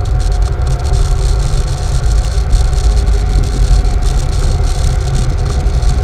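Off-road vehicle engine running steadily, a low rumble with a few steady tones above it.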